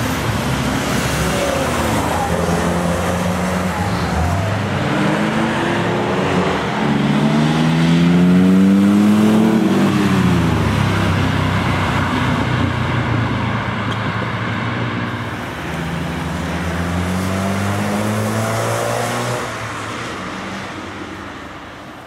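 Car engines revving and accelerating past one after another, their pitch climbing and falling. Around nine to ten seconds in, one car's note climbs steeply, then drops sharply as it goes by. The sound fades near the end.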